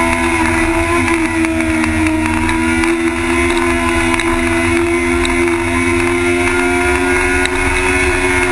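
Sport motorcycle engine running at high, nearly steady revs while cornering, the pitch creeping up slightly and easing off near the end, with wind buffeting the microphone underneath.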